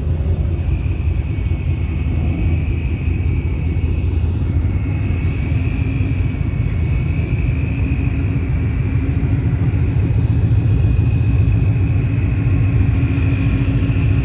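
Car engine running with a steady low rumble and a faint whine, growing a little louder about ten seconds in.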